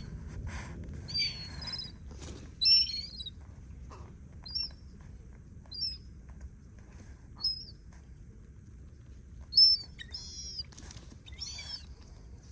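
Repeated short, high-pitched bird calls, about nine of them at uneven gaps of one to two seconds, each a quick chirp that bends in pitch, over a low steady rumble.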